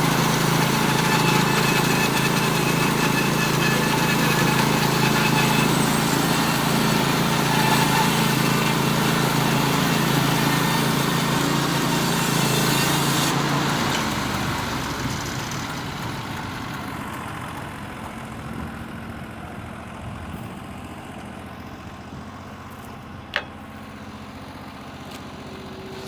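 Norwood HD36V2 portable band sawmill running under load, its band blade cutting through a large poplar log. About halfway through, the sound drops away over a few seconds to a quieter steady running, and a single sharp knock comes near the end.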